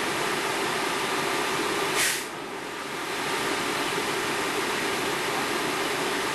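Steady mechanical running noise, a continuous hiss over a low hum, typical of fire apparatus engines and pumps running. About two seconds in there is a brief sharp hiss, after which the sound drops for about a second before coming back.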